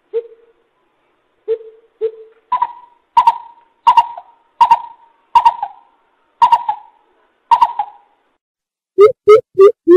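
Greater coucal calling in a series of deep hoots. It starts with three low hoots, then gives seven higher hoots about two-thirds of a second apart, and near the end a quick run of low hoots.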